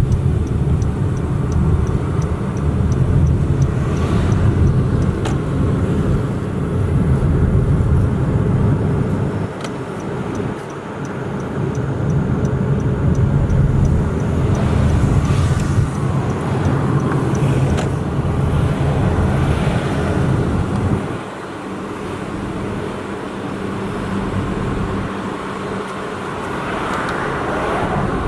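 A car driving through town, heard from inside: steady engine and tyre rumble with road noise. The low rumble eases briefly about ten seconds in, and again about two-thirds of the way through, as the car slows.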